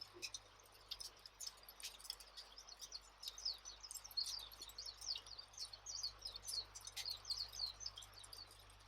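Campfire ambience, faint: a wood fire crackling with scattered sharp pops, while small birds chirp in quick, short downward-sliding notes.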